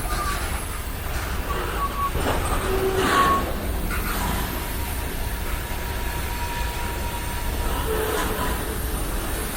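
Freight train cars rolling past with a steady low rumble, their wheels giving several short high squeals and one longer squeal held for a few seconds.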